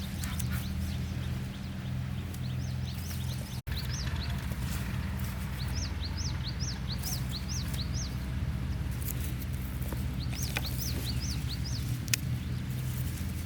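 Small birds chirping in runs of short, high, arched notes, several a second, over a steady low hum.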